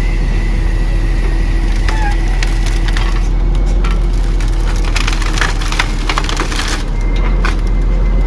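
A grapple truck's grapple crushing and snapping a load of brush, with a dense run of branch cracks from about three seconds in until about seven seconds. Under it the truck's engine runs steadily at raised idle, driving the hydraulic pump, with a faint steady whine.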